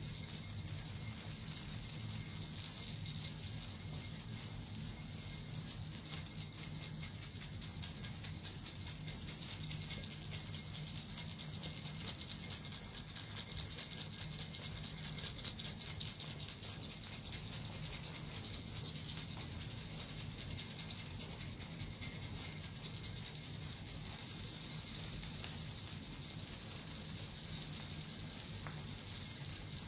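Japanese suzu bells and a metal rattle shaken without pause in a dense, even jingle, with bright high ringing tones held throughout.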